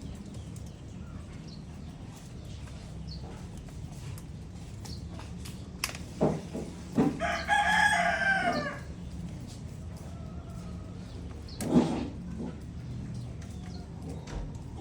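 A rooster crows once, a call of about a second and a half, roughly seven seconds in. A few sharp knocks sound before it and one loud knock near twelve seconds.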